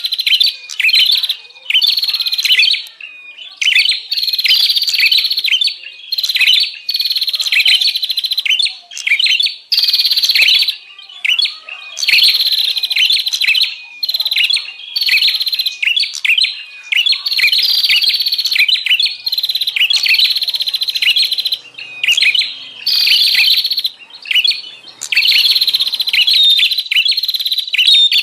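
Prenjak (prinia) singing in a noisy, excited way: rapid high chirping phrases in loud bursts with short breaks between them. This is a lure recording for drawing in wild prenjak.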